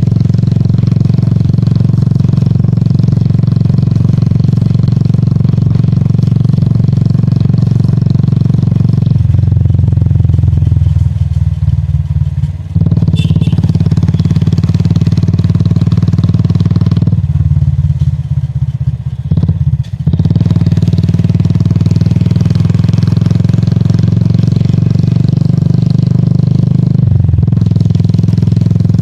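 Royal Enfield Classic 350's single-cylinder engine and exhaust running on the move, a steady low beat. The throttle eases off twice, about a third and about two thirds of the way through, then picks up again.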